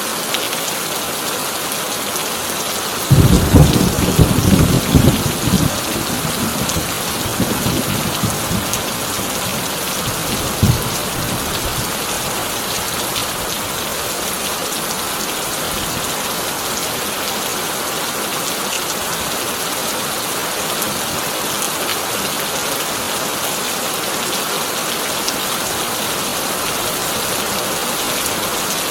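Heavy rain drumming steadily on a tin roof, with a loud thunderclap about three seconds in that rumbles on for a few seconds, fainter rumbles after it, and one short crack of thunder about ten seconds in.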